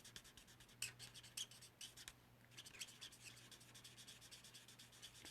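Stampin' Blends alcohol marker tip rubbed in quick small circles on cardstock: faint, rapid scratchy strokes with a squeak now and then, the sign of pressing too hard, which risks ruining the tip. The strokes pause briefly about two seconds in.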